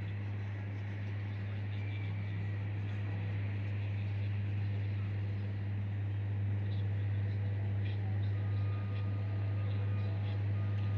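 A steady low hum under outdoor ambience, with a faint thin tone entering in the second half.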